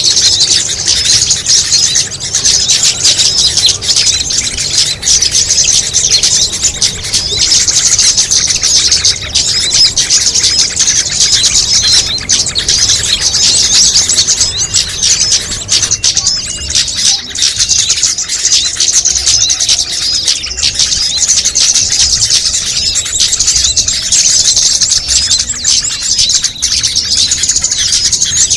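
Dense chorus of many small birds chirping and twittering at once, high-pitched and unbroken, as in a mixed small-bird lure recording that layers the calls of several species.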